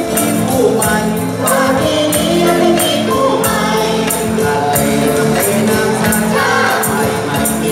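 A chorus singing a Thai ramwong song with band accompaniment, over a steady beat of bright, jingly percussion.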